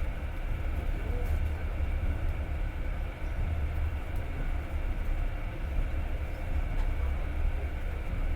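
Passenger train running at speed, heard from inside the carriage: a steady low rumble of the wheels on the rails and the carriage in motion.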